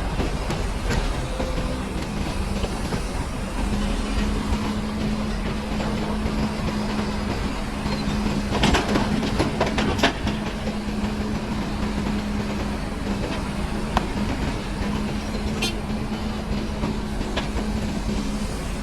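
Heavy diesel earthmoving machinery running with a steady engine drone, with a cluster of metallic clanks and knocks about halfway through.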